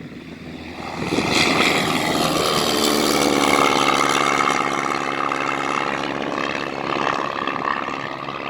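Small propeller airplane taking off at full power. Its engine grows loud about a second in as it passes and stays loud, with a slight drop in pitch as it goes by.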